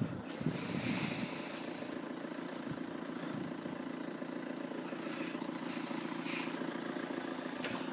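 CrossCountry Class 170 Turbostar diesel multiple unit running past, a steady rumble of engines and wheels on rail.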